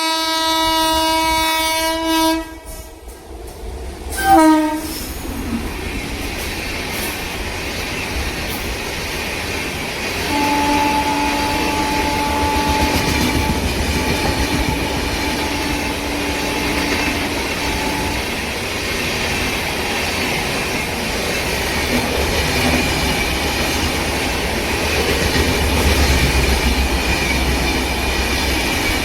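Indian Railways electric locomotive's horn sounding one long blast, then a short one, followed by a train running past with a steady rumble of wheels on rail and clickety-clack. A second, fainter long horn blast sounds from about ten seconds in to about halfway through.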